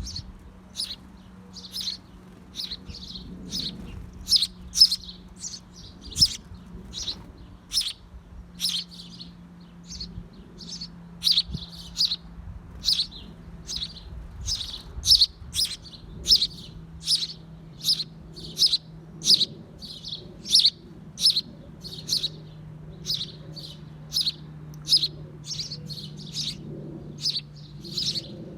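Small bird at a birdhouse chirping over and over, a short high chirp every half second or so, with a faint steady low hum underneath.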